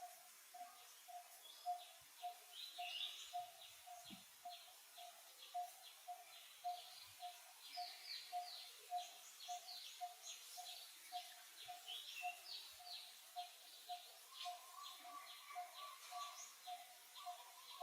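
Faint wild birdsong: one bird repeats a short low note about twice a second, with rapid high chirps from other birds over it. Another steady note joins near the end.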